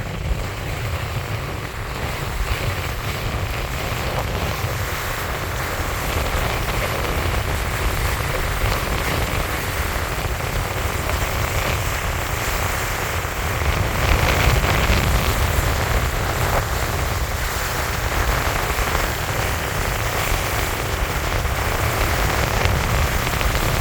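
Steady wind buffeting the microphone, a heavy choppy rumble with a rushing hiss over it, gusting a little stronger about halfway through.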